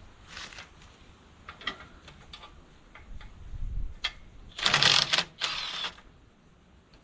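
Socket ratchet wrench clicking, with scattered metal clicks and knocks, then two louder runs of rapid ratcheting about four and a half seconds in.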